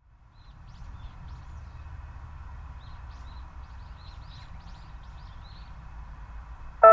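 Small birds chirping in many short, repeated high notes over a low steady rumble of background noise. Right at the very end, the loud first chord of the public-address horn loudspeakers' chime cuts in.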